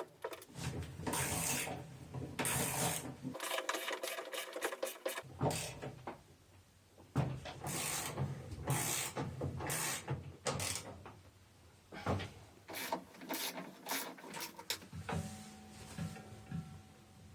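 Hands and tools working on a top-loading washing machine's belt drive: irregular scrapes, rubs and knocks of metal parts, coming in short spells with brief pauses.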